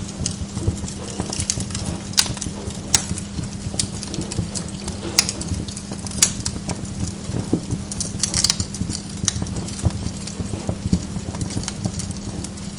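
Wood log fire crackling in a fireplace: irregular sharp pops and snaps every second or so, with a steady low hum underneath.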